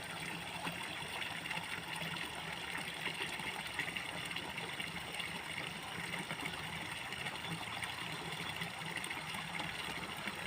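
Steady rush of running water with a faint low hum underneath.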